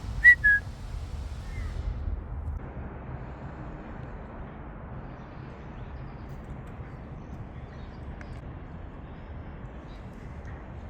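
A bird gives two short high calls about a third of a second apart, then a steady low hum and hiss runs underneath.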